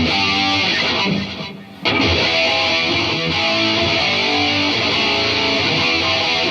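Distorted electric guitar played through an Atomic AmpliFire amp-modeler pedal into cheap computer speakers, a run of quickly changing picked notes. There is a brief pause about a second in before the playing resumes.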